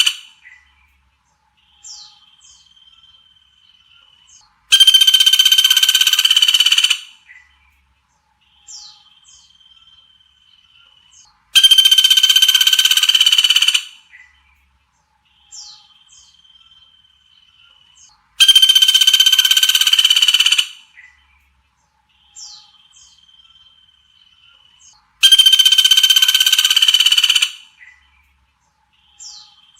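Looped recording of sultan tit calls: a loud, harsh, buzzy call about two seconds long comes four times, about every seven seconds. Between the loud calls come a couple of quick high falling whistles and a thin, steady whistled note that is held for about two seconds.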